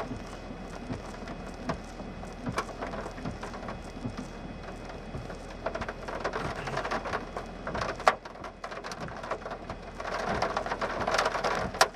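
Rain falling, scattered sharp drop hits over a steady hiss. It grows louder about six seconds in and again from about ten seconds, with one sharp knock at about eight seconds.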